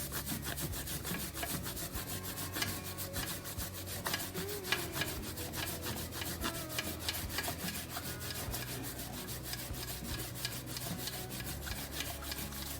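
A stiff bristle chain brush scrubbing a kerosene-wet motorcycle chain, in quick repeated scraping strokes that lift off old chain lube.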